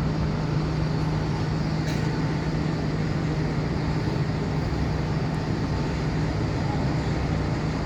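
Steady mechanical rumble with a constant low hum, unchanging throughout.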